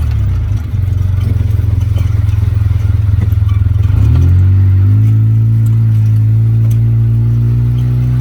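Vehicle engine running under steady load, its drone stepping up slightly in pitch about four to five seconds in and then holding steady.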